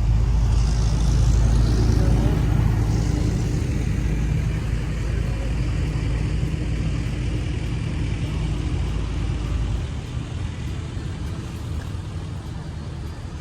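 A motor vehicle's engine rumbling close by in street traffic. It is loudest in the first few seconds, then eases off, dropping further about ten seconds in.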